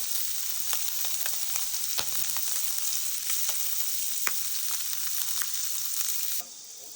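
Food frying in a hot pan: a steady sizzle with scattered sharp pops and crackles, which cuts off suddenly near the end.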